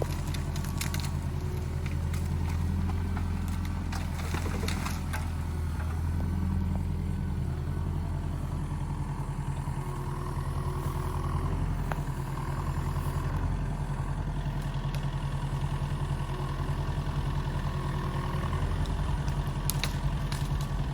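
JCB excavator's diesel engine running steadily, with scattered knocks and clatter near the start and end.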